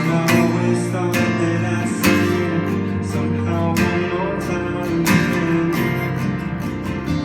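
Acoustic guitar strumming chords in an instrumental passage of a song, a strum about every second.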